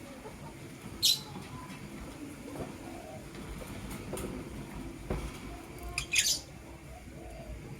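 Lovebirds giving short, sharp high-pitched chirps and squawks: one about a second in, a quick cluster of two or three near six seconds, and fainter calls between.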